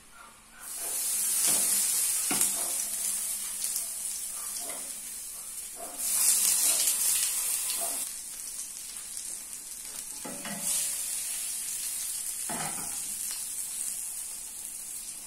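Boiled hot dogs frying in hot oil in a nonstick pan, sizzling steadily. The sizzle surges louder about half a second in, at about six seconds and at about ten seconds, as more hot dogs go into the oil or are turned. Light taps of chopsticks against the pan come in between.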